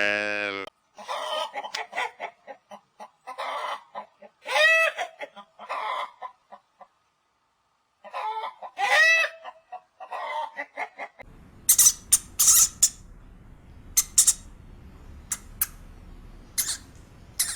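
Chicken clucking, a series of short pitched calls with a pause in the middle. About 11 seconds in, a different sound takes over: a run of short, sharp, very high-pitched chirps or squeaks over a faint background hiss.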